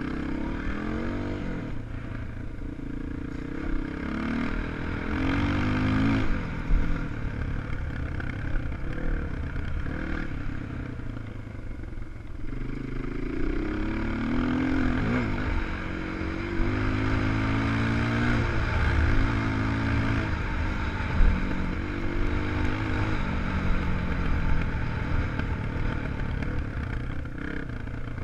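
250 cc enduro motorcycle engine being ridden on a dirt track, its revs repeatedly rising and falling as the throttle is worked, with rattling from the bike over rough ground.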